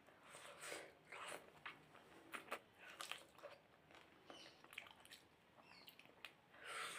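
Faint, irregular eating sounds: wet mouth smacks, chewing and a few biting clicks.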